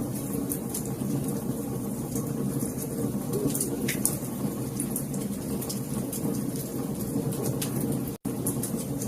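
Wood fire crackling: frequent sharp snaps and pops over a steady low rumble of burning. The sound drops out for an instant about 8 seconds in.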